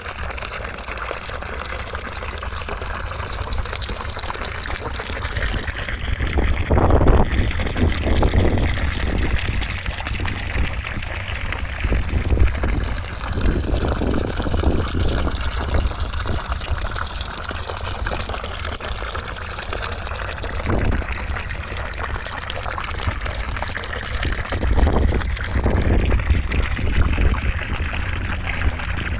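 Continuous white-noise rush: an even hiss with slowly drifting shifts in tone and a low rumble that swells now and then, strongest about 7 and 25 seconds in.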